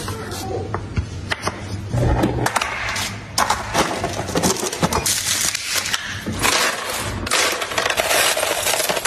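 Food containers and packaging being handled and set down: a busy run of clicks, clinks, knocks and rustling.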